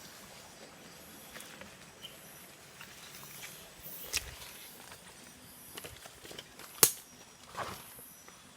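Outdoor rural ambience with scattered rustles and light clicks, and one sharp click about seven seconds in.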